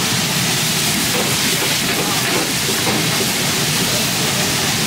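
Potstickers frying in bubbling oil and water in a large flat pan, sizzling with a loud, steady hiss.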